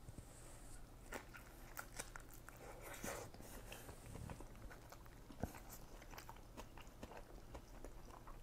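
A person biting into and chewing a fresh Vietnamese-style spring roll of rice paper wrapped around lettuce and raw fish, faint, with many small mouth clicks and a denser bite about three seconds in.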